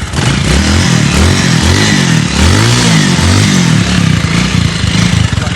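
Single-cylinder motorcycle engine running under way, its pitch rising and falling several times as the throttle is opened and closed.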